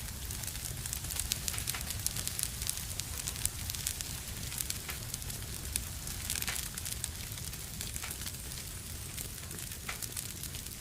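Wood fire burning in a fireplace, crackling with frequent irregular pops and snaps over a soft hiss and a low rumble.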